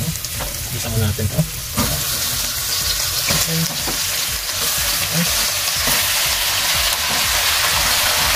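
Raw chicken pieces frying in hot oil in a stainless steel pot with sautéed onion, garlic and ginger. The sizzling hiss swells about two seconds in as the chicken goes in, with a few soft knocks as pieces land and are moved.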